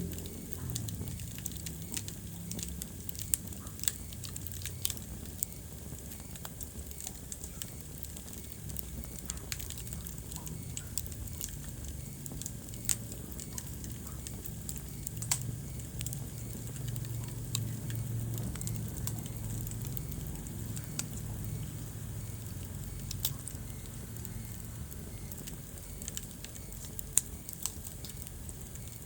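Wood fire crackling in a fireplace: a steady scatter of small sharp pops and snaps, with a few louder pops.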